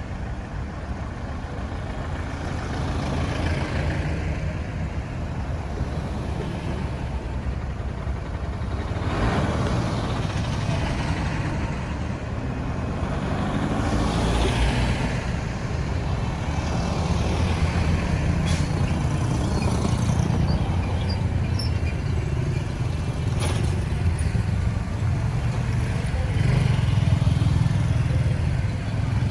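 Road traffic: engines and tyres as cars, trucks and motorbikes go by, with louder passes about nine seconds in and again around fourteen seconds, and a few short clicks later on.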